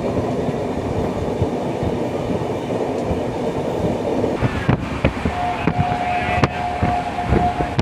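Express train running on the rails, heard from a moving coach: a steady rumble, then from about halfway a quickening run of sharp clacks over the track, with a steady high tone held for about two seconds near the end.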